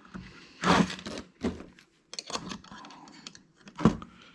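Metal hard-drive parts being handled and pulled apart: a few knocks and scattered small clicks, the loudest about a second in and near the end.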